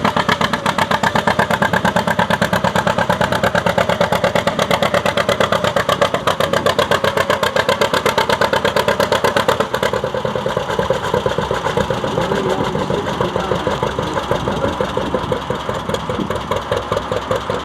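Antique farm tractor engine running loud with a fast, even exhaust beat, easing off and quieter about ten seconds in.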